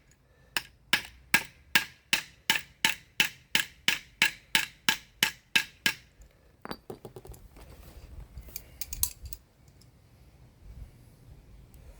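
Hammer blows on a block of wood laid over a kinked 3/8-inch steel transmission line, pounding the kink back open. The strikes are sharp and steady, about three a second, for some six seconds; they are followed by a few light clinks and handling noise.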